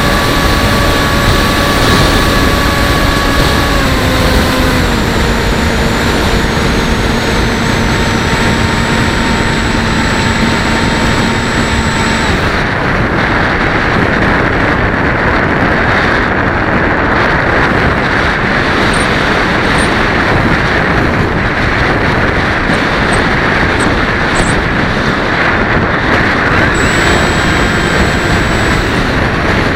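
Electric motor and propeller of a Bixler 1.1 RC plane running, heard from the onboard camera, its tone stepping down twice as the throttle is eased back, then cutting off about twelve seconds in. After that, strong wind rushes over the microphone.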